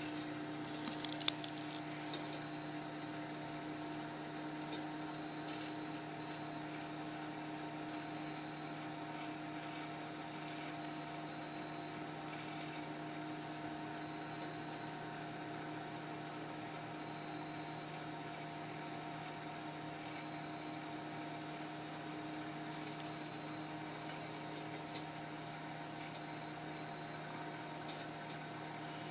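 Microwave oven running with a steady hum while heating snow in a glass; a few sharp clicks about a second in.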